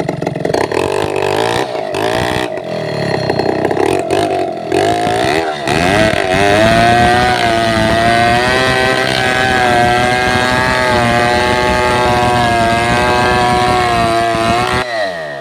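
Chainsaw engine revved up and down in short bursts, then held at high speed for about eight seconds before dropping back near the end.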